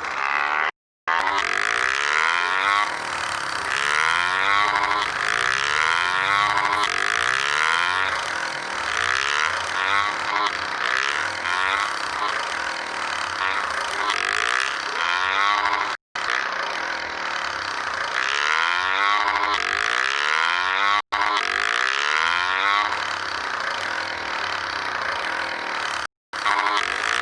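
Motorcycle engine rising and falling in pitch over and over, under a steady loud hiss. The sound cuts out completely four times for a moment.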